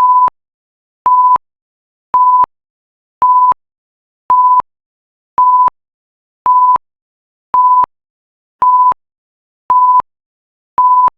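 Countdown timer's alarm beeping: a single steady high electronic tone in short beeps about a third of a second long, repeating about once a second, signalling that the time is up.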